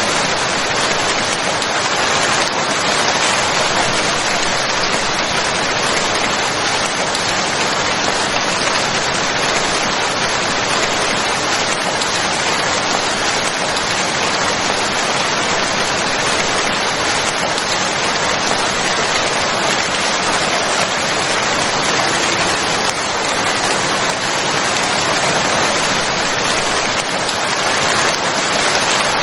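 Steady heavy rain: a dense, even hiss of falling rain with fine drop patter, unchanging throughout.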